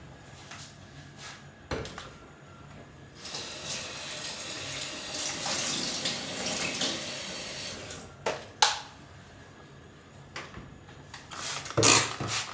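A water tap running into a sink for about five seconds, starting about three seconds in. A few sharp knocks and clinks come before it and after it, the loudest near the end.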